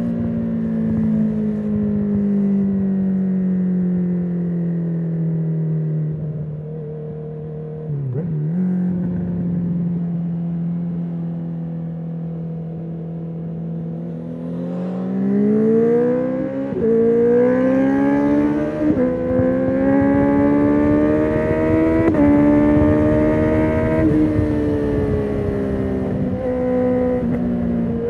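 2019 Honda CB650R inline-four engine through a full Akrapovic titanium exhaust with the dB killer removed. Its pitch sinks slowly as the bike slows, with a quick blip about eight seconds in. From about halfway it climbs hard through the gears, the note dipping briefly at each shift, then eases off near the end.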